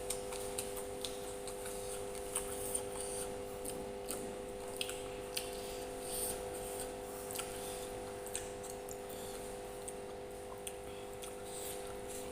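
Close-miked eating: chewing with scattered sharp little clicks and smacks, a few each second, over a steady electrical hum.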